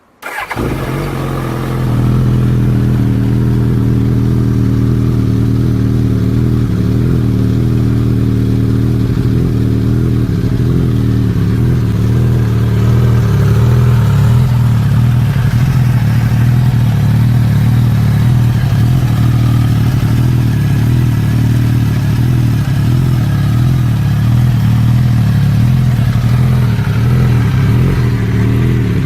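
Suzuki GSX-S1000's inline-four motorcycle engine started from silence, catching right at the start and building up over a couple of seconds. It then runs steadily, a little louder from about twelve seconds in.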